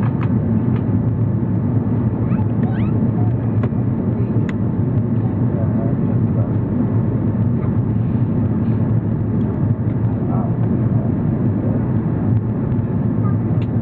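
Steady low rumble inside the cabin of an Airbus A340-300 in flight, from its four CFM56 engines and the rush of air past the fuselage.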